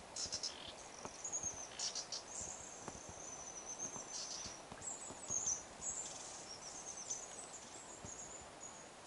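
Small birds twittering high and thin, in wavering phrases broken by short quick chirps.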